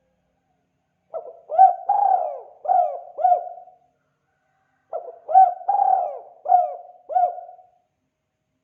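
Spotted dove cooing: two phrases, each of about five notes, the second phrase starting about two seconds after the first one ends.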